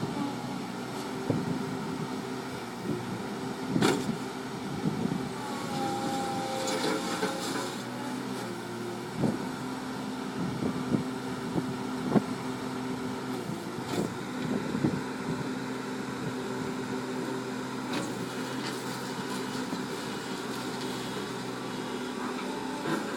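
Bulldozer's diesel engine running steadily, with occasional sharp clanks from the machine as it works.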